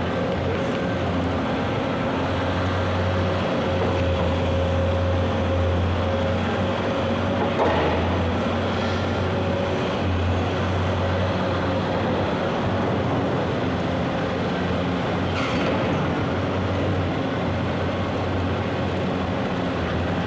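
Diesel excavators running steadily on a construction dig: a low engine hum that swells and eases, with a steady whine above it. Two short clanks come about eight seconds apart.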